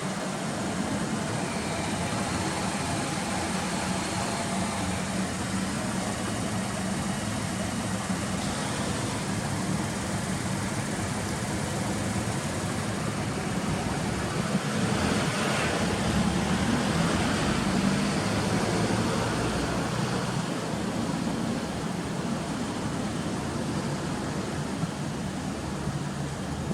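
Toyota Mark X's supercharged V6 idling steadily with a low, even hum that grows slightly louder for a few seconds about two-thirds of the way through.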